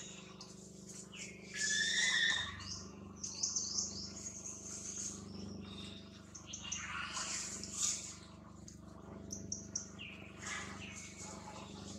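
Small birds chirping repeatedly in high, short notes, with a louder, longer whistled call about two seconds in.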